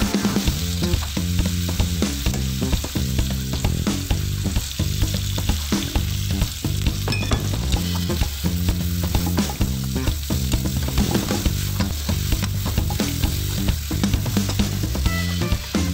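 Pork belly frying and sizzling in a wok with muscovado sugar, stirred steadily with a spatula that scrapes and knocks against the pan many times.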